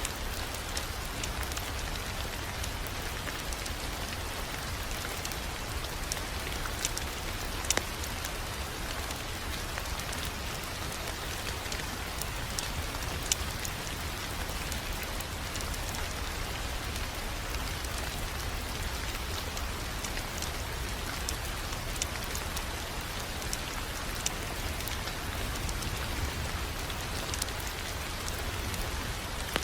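Wood fire crackling in a fireplace: a steady hiss with scattered sharp pops and snaps, over a low steady rumble.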